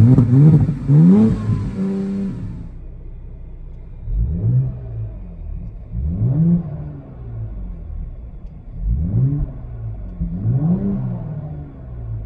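2020 Ford Explorer ST's twin-turbo V6 revved through a Kinney's Street Demon true dual performance exhaust: a few quick revs at first, then four separate throttle blips, each rising and falling in pitch.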